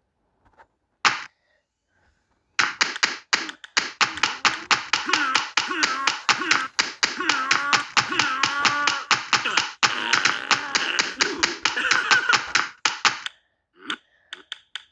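A fast run of sharp taps, about six a second, lasting some ten seconds, with a warbling pitched sound that bends up and down beneath them. A single tap comes about a second in, before the run starts.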